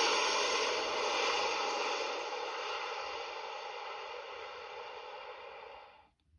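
A Siemens S75 preloaded ringtone made of noisy, hiss-like sound with faint steady tones in it rather than a plain melody, fading steadily and stopping about six seconds in.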